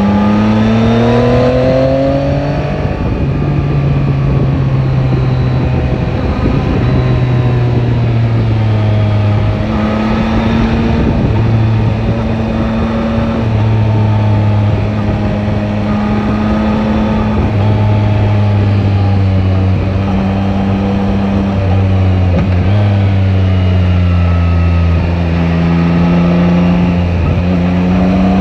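Yamaha Tracer 9 GT motorcycle's three-cylinder engine running under way, heard onboard. Its pitch rises over the first few seconds as it accelerates, then it runs at fairly steady revs with several changes up and down.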